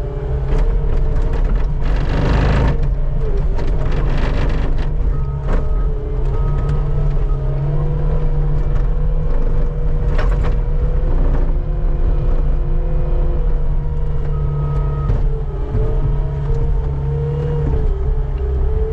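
Skid steer engine running steadily under load with a steady whine, while the bucket scrapes snow off the pavement; short harsh scraping bursts stand out about two seconds in, around four seconds and near ten seconds.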